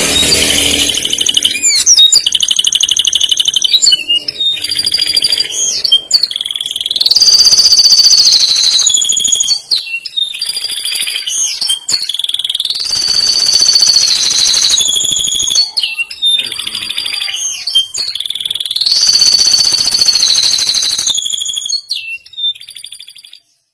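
Male domestic canary singing: long, loud runs of rapid trills, each held at one high pitch for a second or two before switching to a higher or lower trill, with short breaks between the rolls.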